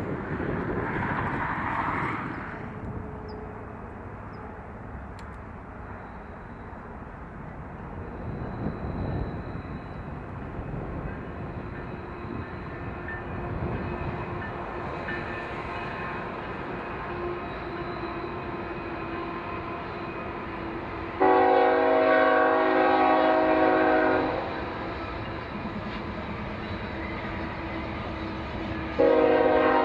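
Steady rumble of a train with wind. Then a locomotive's horn sounds one chord of several notes for about three seconds, and blows again just before the end.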